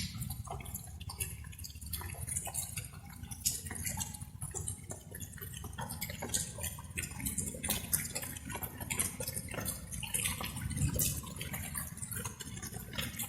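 Light rain: many irregular drops dripping and tapping, over a steady low rumble.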